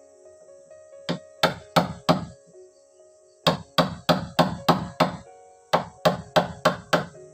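Repeated blows of a tool on wood, in three runs of quick strikes about three a second.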